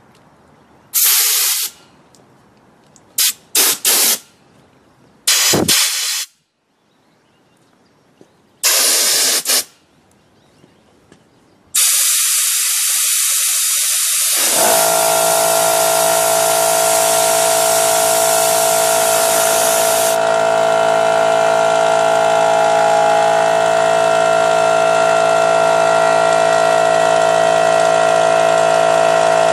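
Several short blasts of compressed air, then a long steady hiss of air rushing out. About fifteen seconds in, the motor and pump of a Harbor Freight Central Pneumatic 2 HP 8-gallon air compressor start and run steadily with an even mechanical hum.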